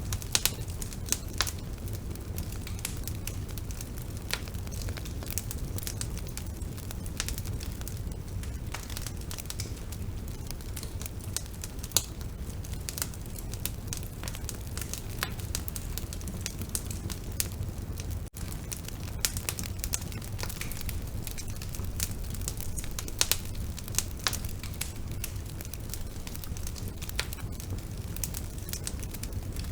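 Bonfire burning: a steady low rumble of flames with frequent, irregular sharp crackles and pops. The sound drops out for an instant about eighteen seconds in.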